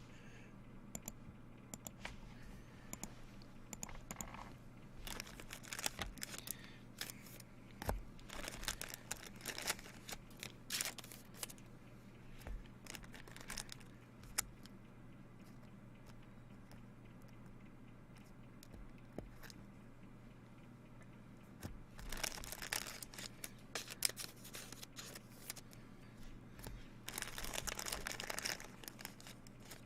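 Plastic and foil wrapping on trading card packaging being torn and crinkled, with scattered clicks and rustles of cards and packaging being handled; two longer spells of tearing and crinkling come near the end.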